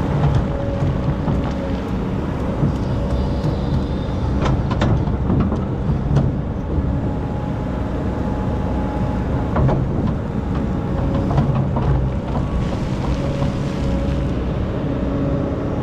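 Excavator's diesel engine running steadily with a hydraulic whine, and a few sharp clanks.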